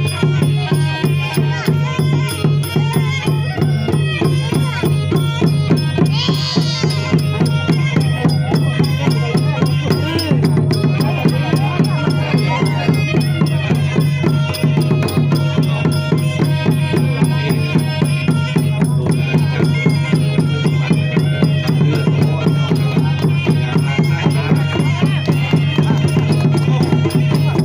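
Traditional southern Thai Nora (Manora) ensemble music: fast, dense percussion over a continuous low tone, with melodic lines above.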